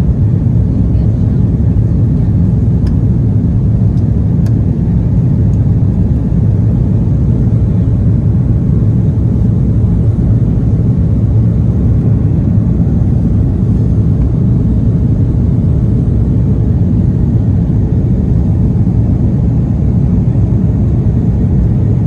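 Airbus A330-300 cabin noise: a steady low rumble of the jet engines and airflow, unchanging throughout.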